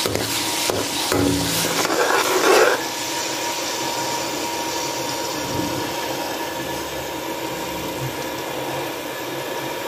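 Garlic paste frying in hot ghee in a steel kadhai. A metal spoon scrapes and stirs it for about the first three seconds, then a steady sizzle.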